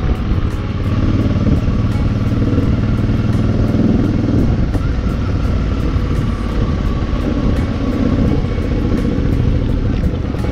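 Suzuki V-Strom 650's V-twin engine running steadily while riding, with low wind and road rumble.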